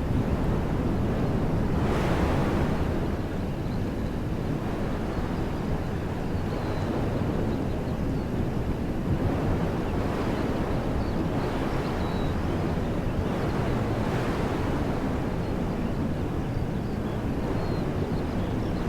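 Wind blowing through woodland trees, a continuous rushing with several stronger gusts that swell and fade. Faint short bird chirps come through now and then.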